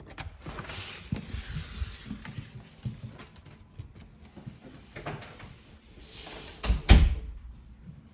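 Knocks and rustling with two brief swishing rushes, then a heavy thump about seven seconds in, in a small room.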